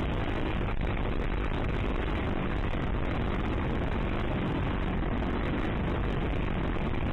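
Dirt bike engine running steadily while riding, mixed with wind rushing over the microphone.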